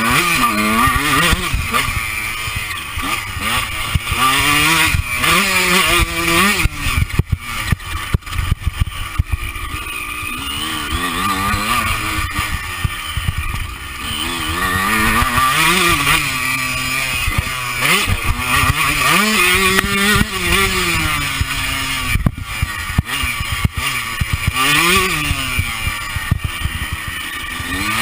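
Honda CR125 two-stroke motocross engine, heard from on board, revving up and dropping back over and over as the rider works the throttle and gears. Wind rumbles on the microphone, with scattered knocks.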